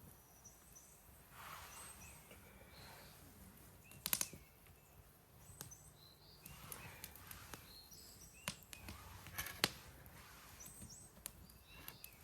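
Campfire wood crackling: a few sharp pops, the loudest a quick cluster about four seconds in and single snaps near the end, over a faint hiss, with short high chirps now and then.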